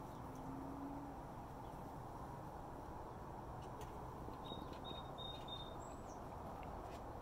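Steady outdoor background noise with a small bird chirping: four short high notes in quick succession about four and a half seconds in, then one higher falling note.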